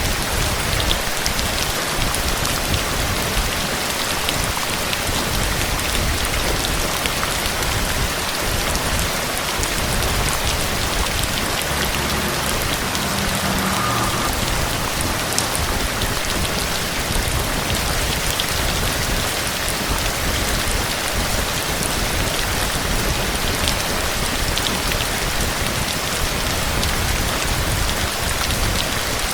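Steady heavy rain falling and pattering on surfaces, an even, unbroken downpour.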